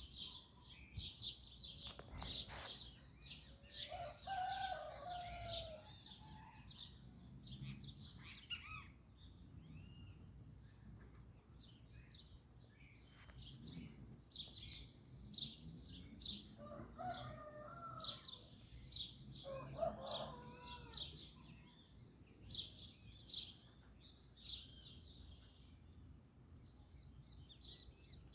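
A rooster crowing three times, each crow about two seconds long: once about four seconds in, then twice close together past the middle. Small birds chirp with short high notes throughout.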